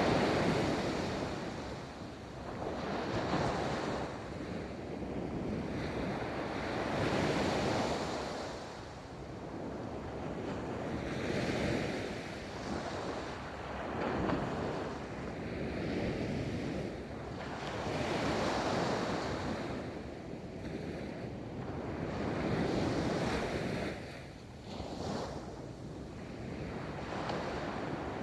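Ocean waves rolling in and breaking on a beach, the surf swelling and easing every few seconds, with some wind on the microphone.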